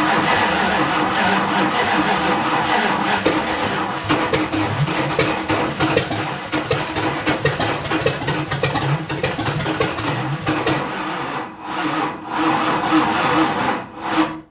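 Chrysler 360 V8 cranked on the starter with the throttle held wide open, firing unevenly as it tries to start: the engine had been flooded. The cranking runs on with two short breaks near the end.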